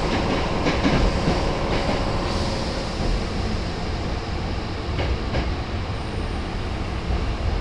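Nose Electric Railway 1700 series electric train running, heard from inside the car: a steady rumble with a few sharp clicks as the wheels cross rail joints.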